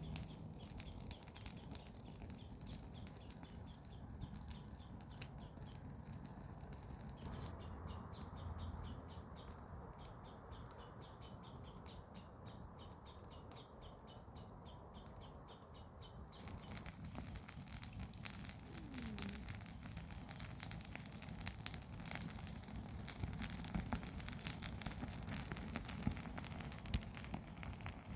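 Garden-waste fire crackling with small sharp snaps, while a bird chirps in a fast, even series of high notes. The chirping stops a little past halfway, and the crackling then grows denser.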